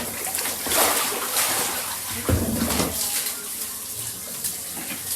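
Rain falling steadily, a continuous hiss of water, with a dull knock a little over two seconds in.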